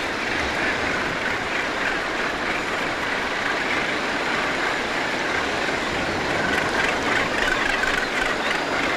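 Continuous din of a gannet and seabird colony, countless harsh calls overlapping into one steady, unbroken roar.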